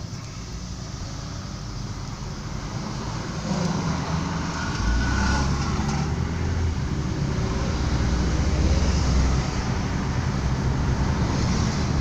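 Road and engine noise of a moving car, with a low rumble that grows louder about four seconds in and stays up.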